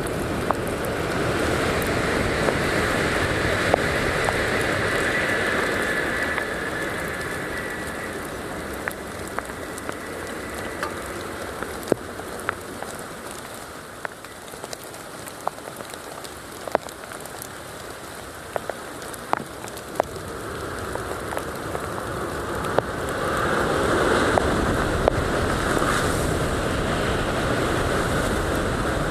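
Heavy rain falling, with sharp drops tapping close by throughout. The rain noise is heavier for the first several seconds, eases in the middle, and swells again about three quarters of the way through.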